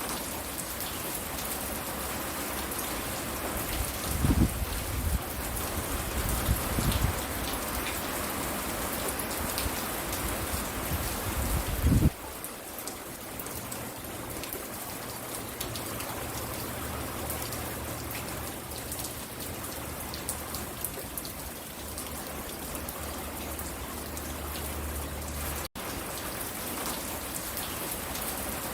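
Steady rain falling and pattering on surfaces. A few short, loud low rumbles come in the first half, and the sound cuts out for an instant near the end.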